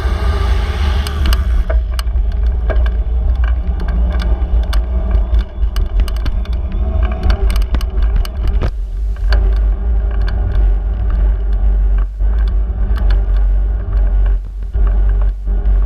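Bicycle ride through city streets: a heavy, steady low rumble of wind and road on the microphone, with frequent small clicks and rattles throughout.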